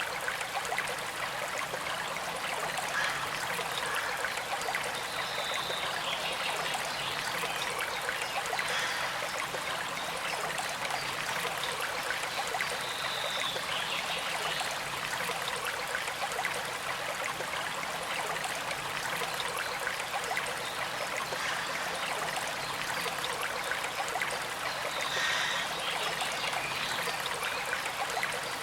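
Gentle stream flowing steadily, a constant trickle of running water, with a few brief higher-pitched sounds over it at intervals.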